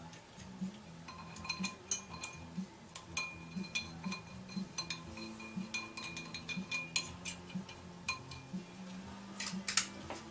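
Hand tools and bolts clinking against the steel flywheel and its holding plate as the flywheel bolts are worked on: irregular sharp metallic clicks, some ringing briefly.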